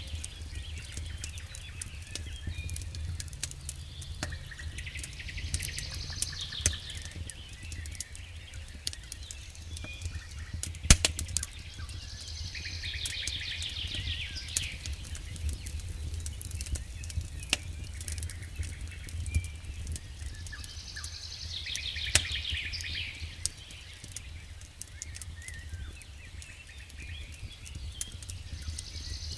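A bird sings the same short phrase about every seven or eight seconds, four times, over scattered crackles and pops from a campfire, the loudest pop about eleven seconds in. A steady low rumble runs beneath.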